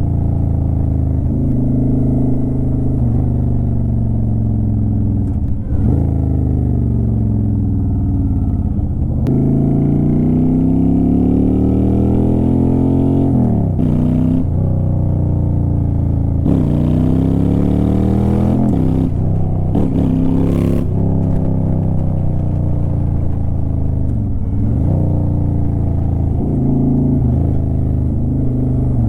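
Honda Shadow Aero 750 V-twin exhaust under way. The engine pitch climbs under acceleration and drops sharply at gear changes several times, with stretches of steadier running in between.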